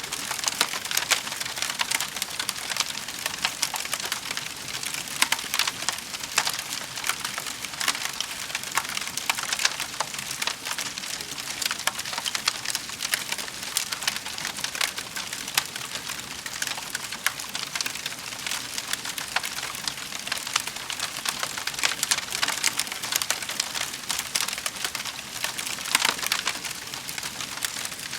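Fire in a fireplace crackling steadily, a dense run of small pops and snaps over a soft hiss.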